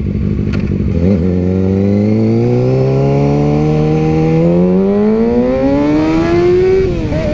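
Motorcycle engine accelerating through a gear, its pitch rising steadily for about six seconds and then dropping suddenly at an upshift near the end, over steady wind noise.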